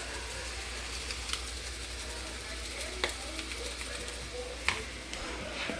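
Steady sizzle of food sautéing in a pan, with a few light clicks scattered through it.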